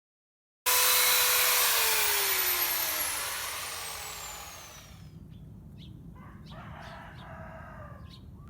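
A power tool's motor running down after being switched off: a loud rushing sound with whining tones that fall steadily in pitch and fade away over about four seconds. It cuts in suddenly about half a second in; only faint scattered knocks follow.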